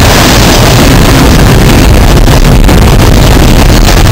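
Double-stack container train's well cars rolling past close by: a loud, steady noise of wheels on rail, heavy in the low end, loud enough to overload the microphone.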